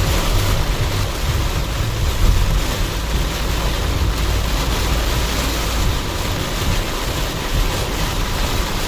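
Steady cabin noise of a car driving in rain: low road rumble with a constant hiss of tyres on the wet road and rain.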